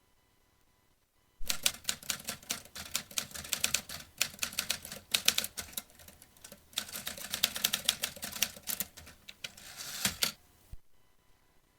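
Vintage typewriter being typed on: a fast run of key strikes begins about a second and a half in, breaks briefly midway, and stops shortly before the end.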